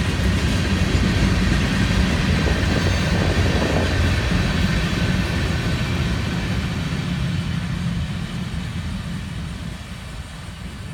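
Florida East Coast Railway freight train's cars rolling past, fading over the last few seconds as the train moves away.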